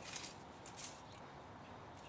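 Two short, scratchy snips or scrapes of a hand tool on scrap metal, the second about three-quarters of a second in, then only faint hiss.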